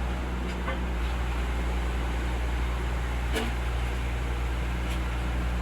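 Engine running steadily at idle, a constant low hum, with one sharp click about three and a half seconds in.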